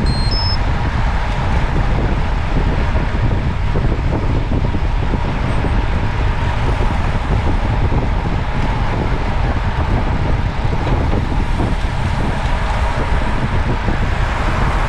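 Steady, loud rush of wind and road noise on an action camera's microphone while moving along a road, with three short electronic beeps right at the start.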